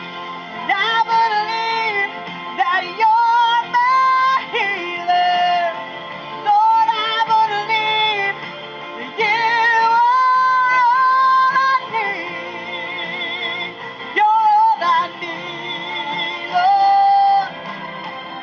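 A woman singing a slow gospel worship song, holding long notes with vibrato, over a sustained instrumental backing.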